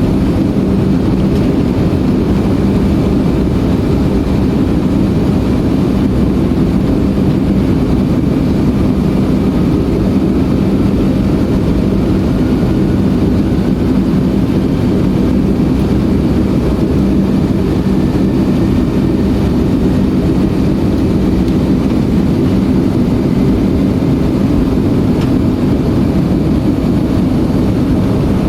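Cabin noise of a Boeing 757-200: steady, deep jet-engine and airflow noise that holds an even level throughout.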